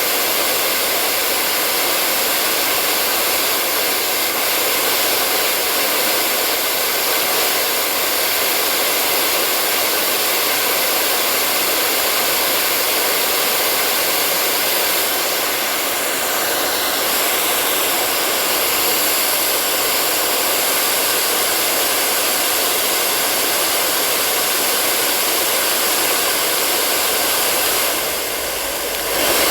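Hair dryer running steadily: an even blowing rush with a faint motor whine through it. It dips briefly and comes back up near the end.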